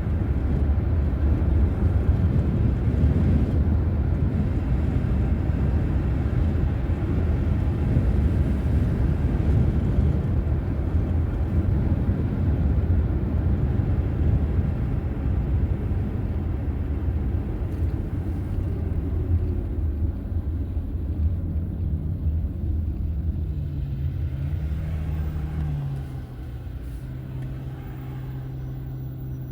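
Car driving: a steady low rumble of tyres and engine. Near the end the rumble drops off and a steady engine hum remains, as when the car slows to a stop and idles.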